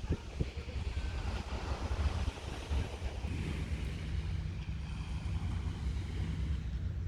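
Wind buffeting the microphone in gusts, a low uneven rumble, over a steady hiss of surf on the beach.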